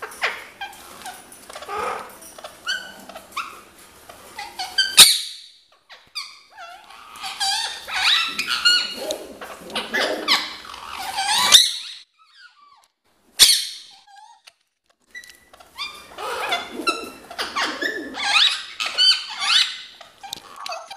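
Ringneck parrot (rose-ringed parakeet) chattering with runs of quick, high squeaky calls. The calls break off for a few seconds just past halfway, then start again.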